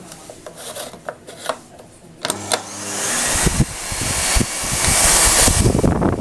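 Knocks and clicks, then from about two seconds in the rushing airflow of an ETA 3408 Quinto vacuum cleaner with a faint steady whine, growing louder before it drops away sharply at the end.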